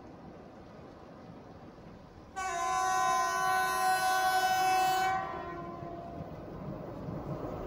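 A horn sounds once, suddenly, about two seconds in: a chord of several steady tones held for nearly three seconds before it fades, over a low rumbling noise that grows louder near the end.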